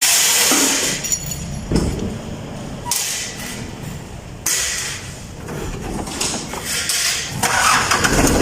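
An engine running with a low drone, mixed with several knocks and loud bursts of hissing noise.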